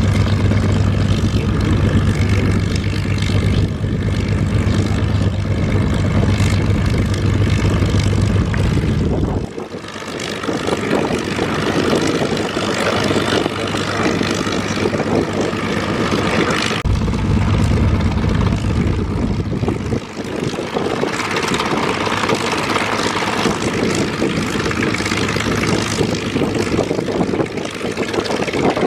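Piston engine of a WWII propeller fighter running with its propeller turning. The deep low rumble cuts out abruptly about a third of the way in, returns a little past the middle, and drops away again shortly after.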